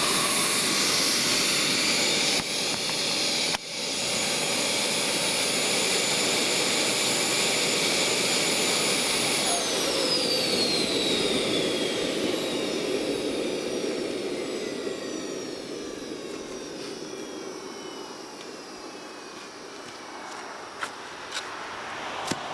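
KJ-66 model jet turbine running at a steady high whine, then shut down about ten seconds in and spooling down, its whine falling steadily in pitch and fading. A few short clicks come near the end.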